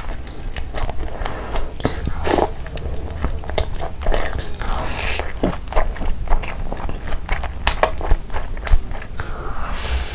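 Close-miked eating: biting and chewing of saucy chicken, fried rice and stir-fried noodles, with many short sharp mouth clicks.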